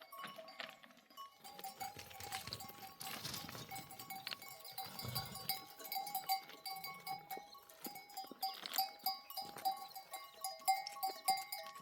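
Bells on a grazing flock of sheep and goats clinking and ringing irregularly as the animals move.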